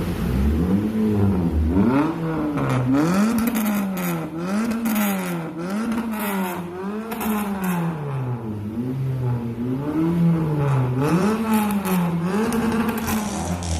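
Car engine breathing through an aftermarket WRC racing exhaust muffler, revved up and let fall again and again, about once every second or two, in a loud rising and falling note.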